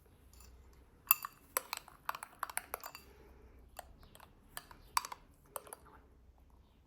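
Kitchen utensils clicking and clinking against dishes: a quick run of light taps between about one and three seconds in, the first with a short ringing clink, then a few spaced-out taps.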